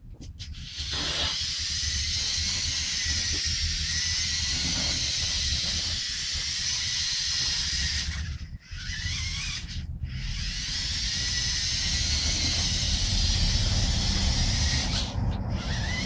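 LEGO Power Functions electric drive motor and plastic gearing whirring with a high hissy whine as the remote-control car drives. It cuts out briefly twice past the middle, spinning back up with a rising whine, and drops again near the end.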